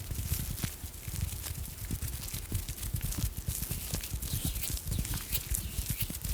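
Close-miked ASMR "coconut" mouth sounds: quick, irregular tongue and mouth clicks like hollow hoof clops, several a second, with a light crackle of plastic film.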